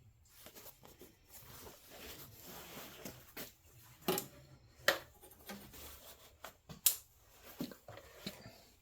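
Scattered light knocks and clinks of metal being handled as angle iron and tools are set up for cutting, with a few sharper knocks about four, five and seven seconds in.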